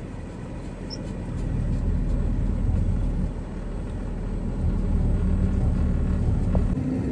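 Box truck's engine and road rumble heard from inside the cab, a steady low drone that swells twice as the truck pulls ahead, then eases near the end.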